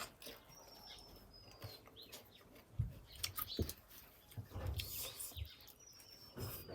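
Small bird chirping, a few short, high, falling whistles, one near the start and one near the end, over scattered clicks and dull low thumps.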